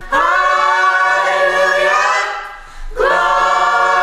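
Youth choir singing in harmony, holding two long sustained chords with a short break between them a little over halfway through.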